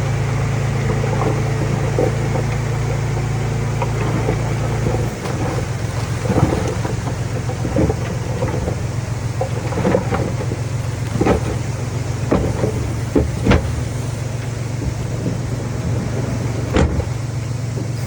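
Heavy earthmoving machine's engine running steadily, its note shifting about five seconds in, then a series of sharp clanks and knocks scattered over the next ten seconds or so.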